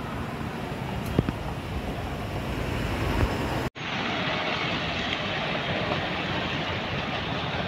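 WAP-7 electric locomotive and its train running, a steady rumble with a couple of sharp clanks. About four seconds in it cuts abruptly to another passing train, a steady rushing noise.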